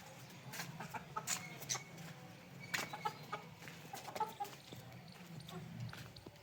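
Black Minorca chickens clucking in short, scattered calls over a steady low hum.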